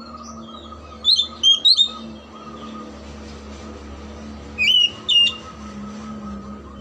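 Oriental magpie-robin (kacer) singing loud, clear whistled notes with quick up-and-down sweeps. Three notes come in a quick run about a second in and two more just before five seconds, over a faint steady background hum.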